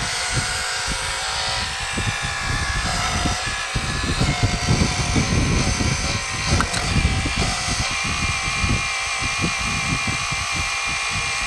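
Electric hydraulic pump of a 1/12 scale RC excavator running with a steady whine made of several fixed pitches, under an irregular low rumble as the machine works.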